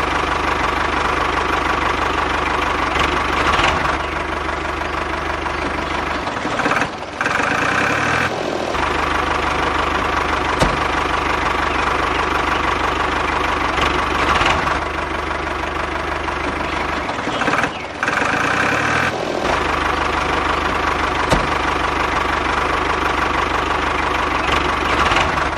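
Mini tractor's engine running steadily, dropping away briefly twice, about a quarter of the way in and again past the middle.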